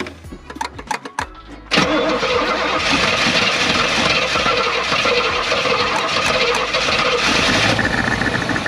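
Third-gen Camaro engine cranking briefly with scattered clicks, then catching suddenly about two seconds in and running loud and steady, easing off near the end.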